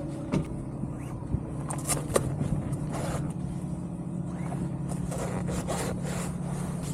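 Steady low engine hum, with scattered rustling, scrapes and light clicks close to the microphone.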